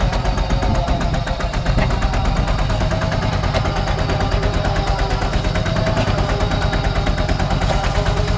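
Small Yanmar diesel engine of a DIY power tiller running steadily, its exhaust giving a rapid, even knocking beat over a low rumble.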